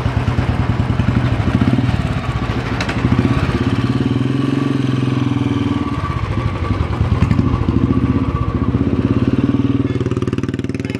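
Royal Enfield Classic's single-cylinder engine running with a steady, rapid thumping beat, rising a little in revs twice, about two and seven seconds in.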